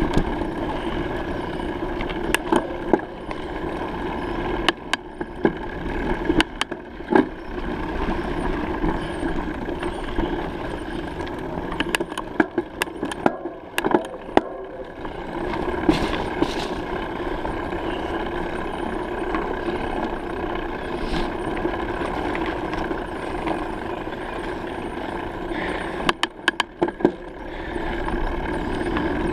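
A bicycle in motion, heard from the bike itself: steady rolling and wind noise, with many scattered clicks and knocks from the bike rattling over bumps.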